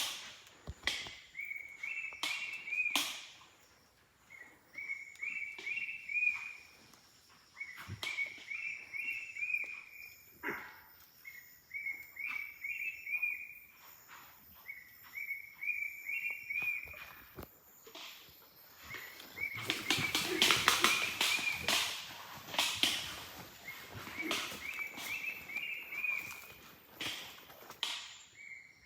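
A forest bird repeating a short phrase of rising whistled notes about every two to three seconds, over footsteps crunching through dry leaf litter and a thin, steady high whine.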